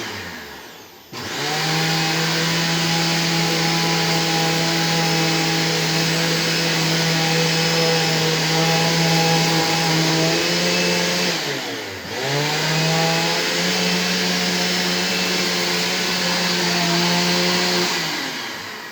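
Dirt Devil Swivel Glide upright vacuum cleaner motor starts up about a second in and runs steadily. About two-thirds of the way through it cuts out, its pitch sagging, then picks back up. Near the end it cuts off and winds down: an intermittent power fault that the owner blames on loose wiring.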